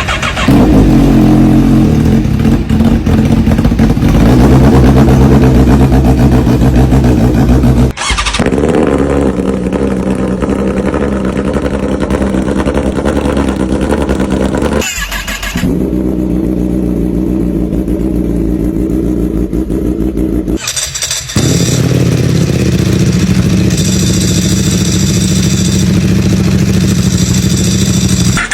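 Superbike engines cold-started and running loudly at a fast idle, one bike after another, with abrupt cuts to a different engine about 8, 15 and 21 seconds in.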